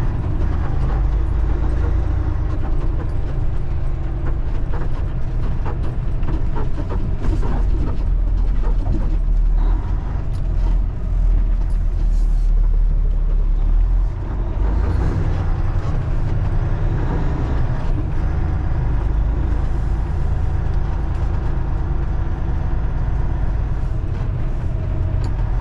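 Semi truck's diesel engine running steadily as the truck is driven slowly around a loading yard, with a few short knocks and clunks along the way.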